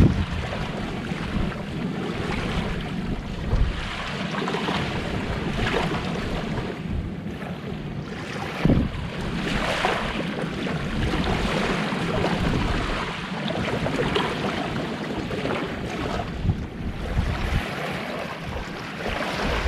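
Sea waves washing onto the shore in repeated surges, with wind gusting on the microphone.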